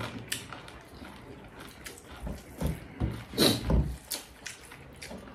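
Close-up eating sounds of people eating rice by hand: chewing and lip smacks with scattered soft clicks, louder for a few moments about two to four seconds in.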